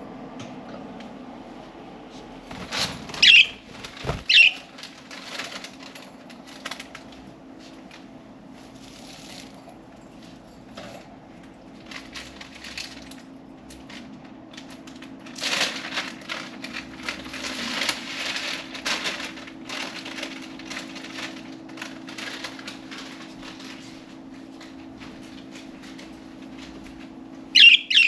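Pet budgies out of their cage: a few short, sharp chirps near the start and a double chirp near the end, with a stretch of wing flapping and rustling in the middle, over a steady low hum.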